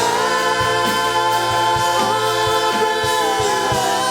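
Gospel praise song sung by a church congregation and singers with live band backing, voices holding a long sustained note over a light steady beat.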